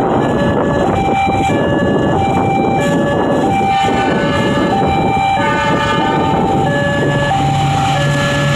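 Railway level-crossing warning alarm sounding its repeating two-tone signal, about one high-low cycle a second, the sign that a train is approaching the crossing, over the heavy rumbling noise of a train. A steady low hum comes in about seven seconds in.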